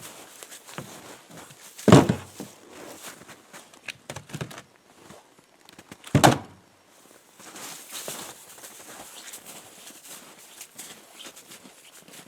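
Two heavy thuds of firewood being dropped onto a load, about two seconds in and again about six seconds in, with lighter knocks and shuffling of wood between.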